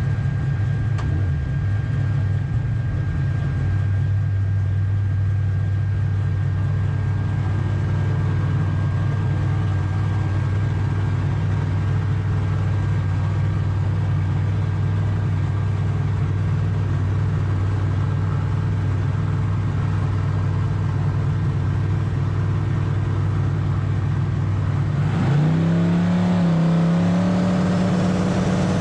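Drag race car engine running at a steady idle, then revving higher near the end.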